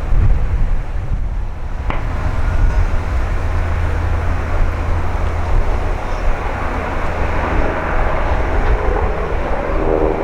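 Airbus A321 airliner approaching to land, its engine whine and rush building steadily louder over the back half, over a steady low wind rumble on the microphone. A sharp click comes about two seconds in.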